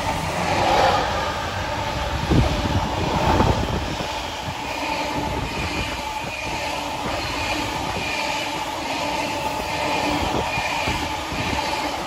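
Long rake of freight wagons rolling past, the wheels clattering in a steady rhythm, with a couple of sharper knocks a few seconds in.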